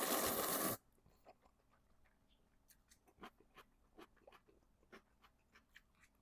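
Close-miked eating sounds: a loud slurp of noodles lasting under a second at the start, then soft, wet chewing clicks, two or three a second.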